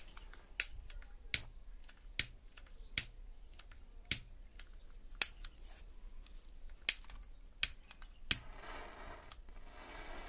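A series of nine sharp clicks, spaced irregularly about a second apart, followed near the end by a short hiss.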